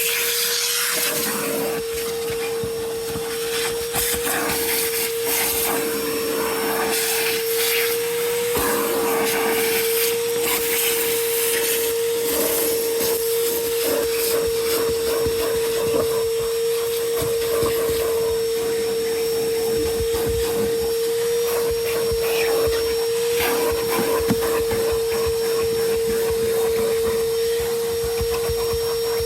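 Vacuum cleaner running steadily with a constant whine, and irregular rubbing and rattling as the nozzle works over the surfaces and picks up debris.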